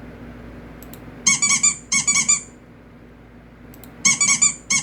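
A man's high-pitched vocal squeaks made as a funny sound effect. There are four quick runs of short chirping squeaks, two about a second in and two near the end.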